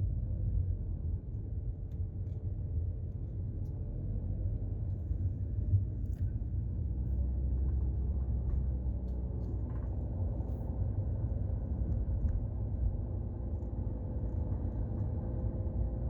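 Car driving along, a steady low engine and road rumble heard from inside the cabin, with a few faint small clicks.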